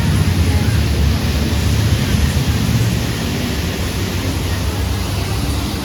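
Wind buffeting the microphone: a loud, steady rushing rumble, heaviest in the low end and fluctuating.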